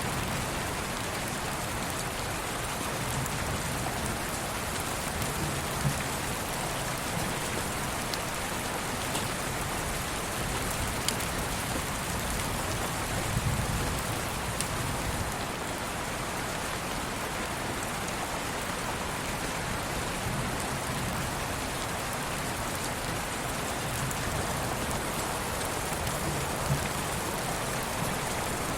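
Steady rain falling, an even hiss with scattered drop ticks and a brief low rumble about halfway through.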